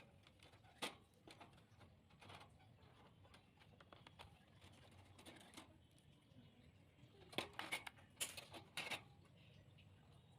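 Faint, scattered clicks and knocks of a lovebird cage being taken apart and its contents removed, with a cluster of louder knocks about seven to nine seconds in.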